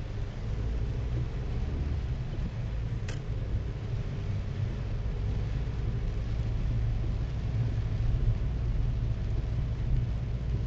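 Car driving in heavy rain, heard from inside the cabin: a steady low rumble of engine and tyres under an even hiss of rain, with a single sharp click about three seconds in.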